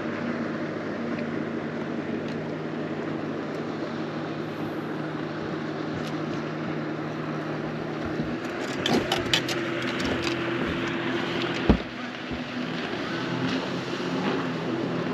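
A boat motor running steadily, its even hum carrying a few fixed tones. Near the end come a few light clicks and one sharp thump.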